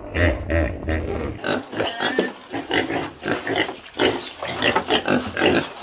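Pigs grunting: pulsing low grunts, then from about a second and a half in a rapid run of short, higher squealing calls.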